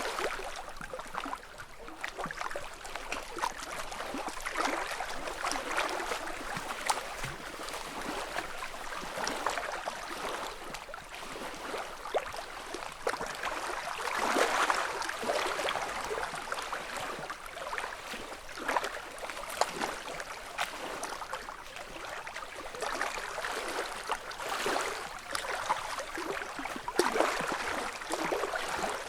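Small lake ripples lapping against the shore, each soft wash swelling and fading every few seconds, with light splashes and ticks in between.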